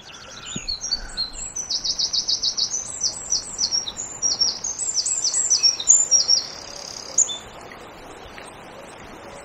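A small songbird singing a long, fast, high-pitched song of rapidly repeated notes and short trills, stopping a little after seven seconds in, over the steady rush of river water.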